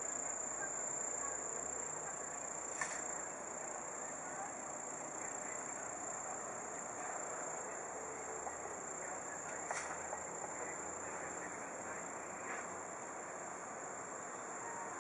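Insects trilling steadily in one unbroken high-pitched tone over low background noise, with two brief clicks.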